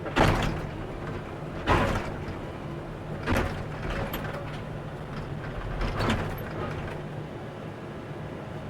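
Hydraulic excavator engine running steadily while the steel bucket scrapes and clanks against rock and dirt: four loud, sharp scrapes, one just after the start, then at about two, three and a half and six seconds in.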